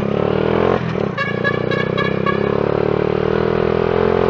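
Shineray motorcycle engine running steadily under way, its note creeping up slightly. About a second in, a pulsing high-pitched tone rides over it for about a second.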